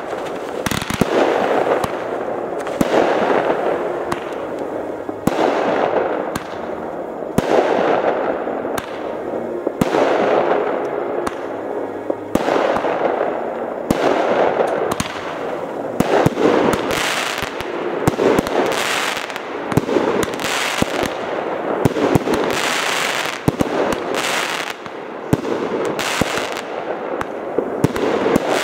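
Aerial fireworks display: a continuous run of sharp bangs and crackling shell bursts, following one another every second or two.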